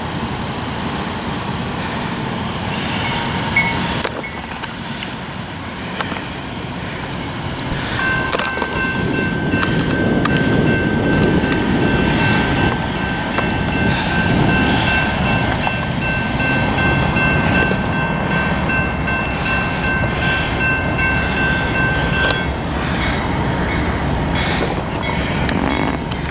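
Freight train passing, its low rumble building about a third of the way in. A steady high-pitched tone of several pitches together comes in with the rumble, holds for about fifteen seconds and then cuts off.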